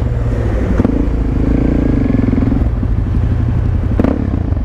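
Suzuki DR-Z400SM's single-cylinder four-stroke engine running steadily while the bike is ridden at cruising speed, with a brief sharp knock about four seconds in.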